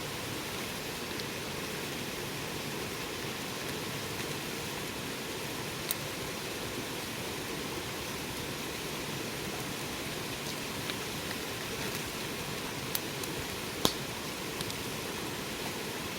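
Wood fire burning with a steady hiss and a few sharp crackling pops, the loudest a couple of seconds before the end.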